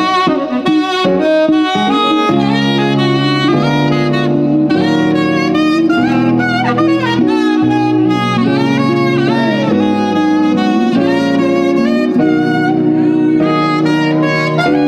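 Saxophone playing a melody line over backing music with sustained low chords.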